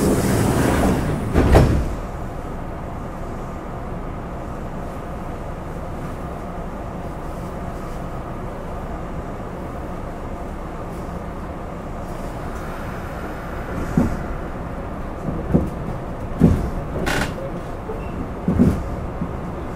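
Inside a Kintetsu 2610 series commuter car: the sliding doors finish closing with a hiss and a thud about a second and a half in. Then a steady hum while the car stands. Near the end come several separate clunks and knocks from the car.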